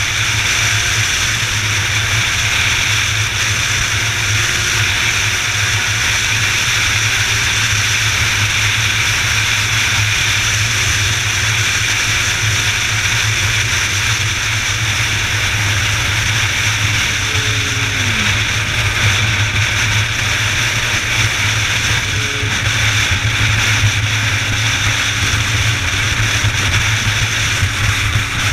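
Motorcycle under way: steady engine noise under a heavy rush of wind, holding an even level with no sharp events.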